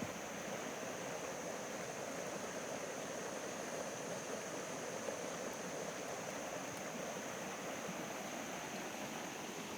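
Creek running high after heavy rain: a steady rush of flowing water.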